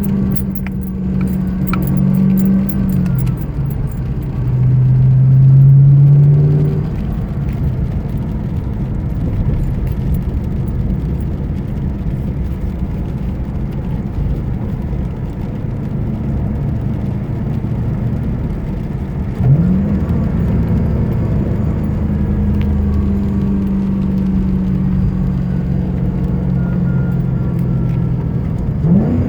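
2010 Ford Mustang GT's 4.6-litre V8 running, its engine speed changing a few times, with a louder stretch about five seconds in and a rise in pitch near the end, over a whining noise from the accessory drive. The whine comes from a failing idler pulley, which the owner first took for the serpentine belt or the alternator.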